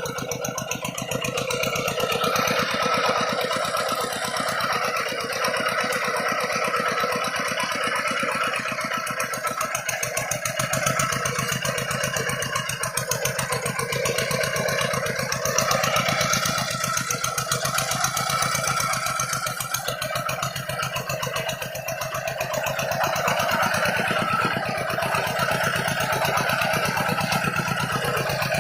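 Rice-paddy tractor engine running steadily, its rapid even firing pulses heard throughout.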